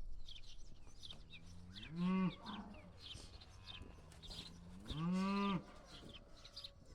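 Cattle mooing twice: a short moo about two seconds in, then a longer one about five seconds in.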